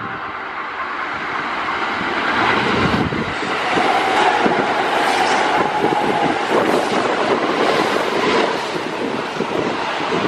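Kintetsu 80000 series Hinotori electric limited express passing close by: a rush of wheels on rail that builds up and stays loud, with a steady high tone for a couple of seconds in the middle.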